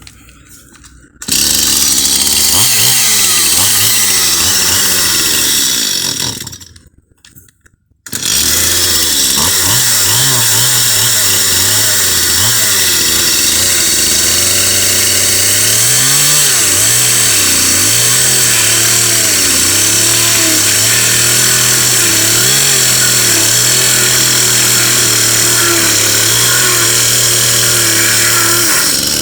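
Chainsaw running and revving as it cuts roofing underlay sheets. It stops for about two seconds around six seconds in, then starts again and runs on with its pitch rising and falling.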